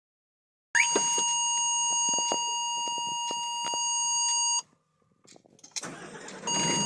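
A steady electronic beep tone, one unbroken note held for about four seconds with faint clicks over it. It cuts off abruptly, and after a short gap it sounds again briefly near the end over a rushing noise.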